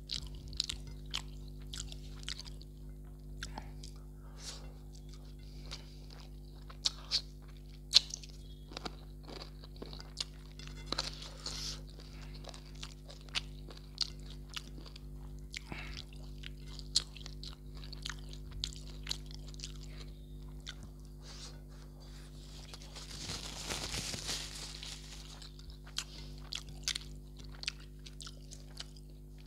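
Close-miked eating: chewing with many short, sharp crunches scattered irregularly, as rice is eaten by hand from a plate. About three quarters of the way through, a rustling noise lasts a couple of seconds. A steady low electrical hum sits underneath.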